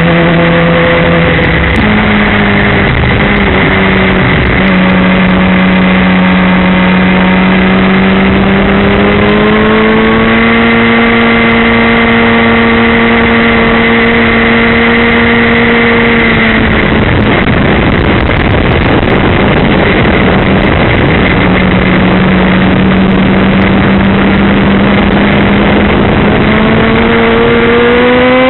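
Suzuki GSX-R 1000 inline-four sportbike engine at speed on track, under heavy wind rush. The revs climb about a third of the way in, then the engine note drops away under the wind for several seconds a little past halfway, comes back, and rises sharply near the end as the bike accelerates.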